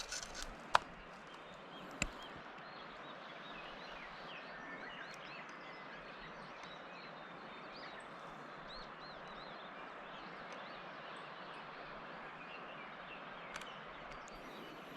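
Small forest birds singing and calling, many short chirps, over a steady rushing background; a few sharp clicks in the first two seconds.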